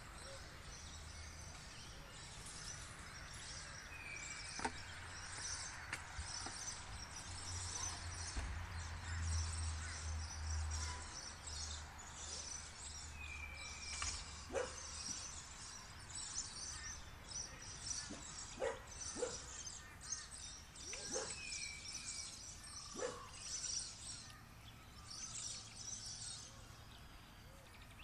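Many birds chirping busily and high-pitched, with a few short falling notes and several louder, sharper calls scattered through. A low rumble swells under them about a third of the way in.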